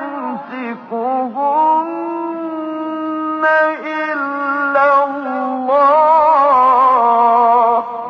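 A solo voice singing a slow, wordless melodic line without instruments, with long held notes ornamented by wavering vibrato and sliding pitch changes.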